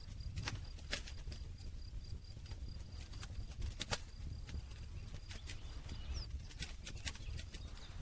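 Campfire crackling: wood snapping and popping in sharp, irregular cracks over the low, steady rumble of the flames.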